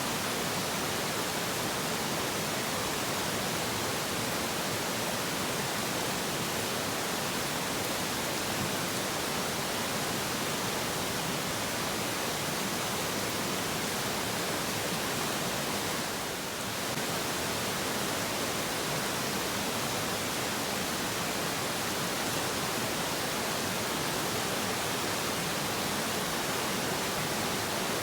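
Steady rush of water pouring down Shasui Falls, a tall waterfall, heard as an even, unbroken hiss that dips slightly for a moment about sixteen seconds in.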